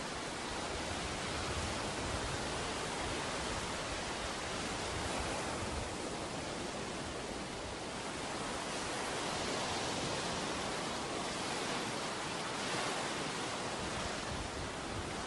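Ocean surf on a beach: a continuous rush of breaking and washing waves that swells and eases slowly every few seconds.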